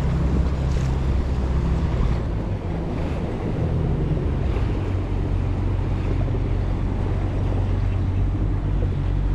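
A small boat's motor running steadily, its note dropping a couple of seconds in, with wind buffeting the microphone and the wash of water against the hull.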